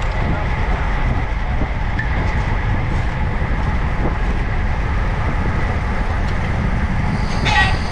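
Steady wind rumble on the microphone and road noise from a bicycle being ridden, with a faint steady whine. Near the end there is a brief pitched call.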